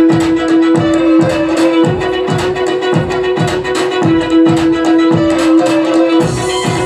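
Violin playing a slow melody of long held notes over a backing track with a steady pulse of plucked strings.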